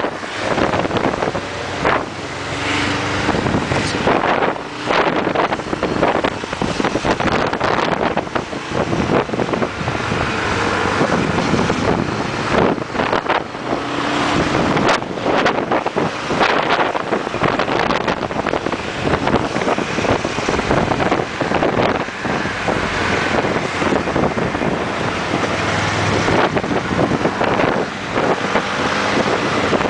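Wind buffeting the microphone of a moving motorcycle, a steady rush with irregular gusts, the motorcycle's engine faintly underneath.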